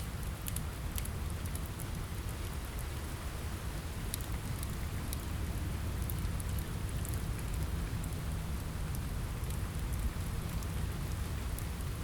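Steady rain on a window mixed with a crackling fire: a constant hiss over a low rumble, with scattered sharp crackles.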